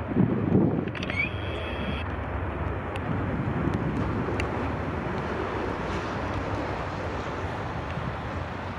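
Boeing 737-800's CFM56 jet engines at take-off thrust, heard as a steady rumble, with wind buffeting the microphone in the first second.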